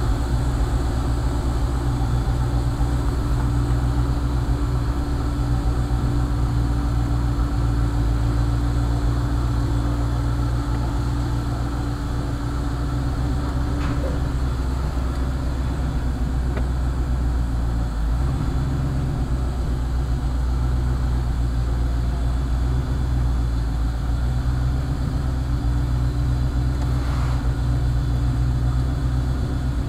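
Engine of a Countach replica idling steadily with its fuel injector seals freshly replaced.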